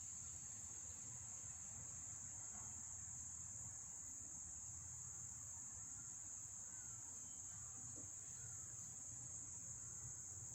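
Crickets chirping in a steady, high-pitched chorus that does not change, with a faint low hum under it.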